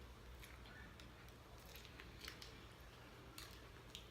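Near silence with faint chewing: a few soft mouth clicks spread through, over a low steady room hum.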